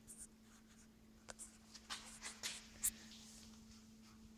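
Faint rustling and scattered light clicks of handling as someone crouches down with the camera, with a few sharper ticks, over a faint steady hum.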